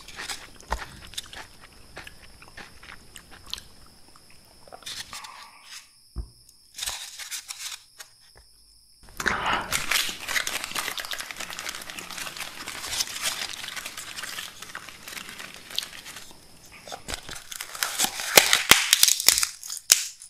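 Close-miked crunching and chewing of raw red bell pepper: scattered crisp snaps at first, then dense wet crunching from about halfway, loudest near the end.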